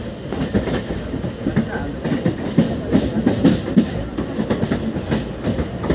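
Passenger train running, its coach wheels clattering over the rail joints with many uneven knocks, several a second, over a steady rumble.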